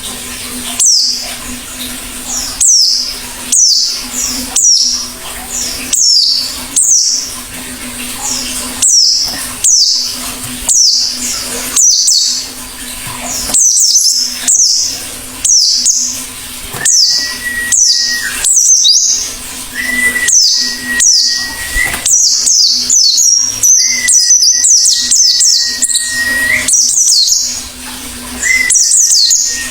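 White-eye (pleci) singing hard: loud, high, falling chirps repeated about once a second. From about halfway, long level whistled notes are held for a second or two each, four times, over a faint steady low hum.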